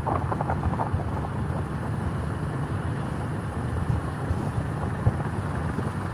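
Wind buffeting the microphone on a moving bike, over a steady low rumble from the ride.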